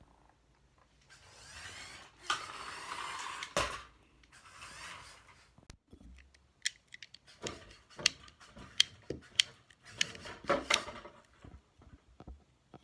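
A plastic Lego model being handled: a stretch of rubbing and scraping, then many sharp, irregular clicks and knocks of bricks against each other and against a surface.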